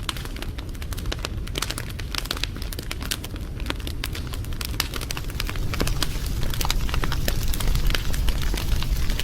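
Wood fire crackling, with many irregular sharp pops over a steady low rumble of flames, getting a little louder about halfway through.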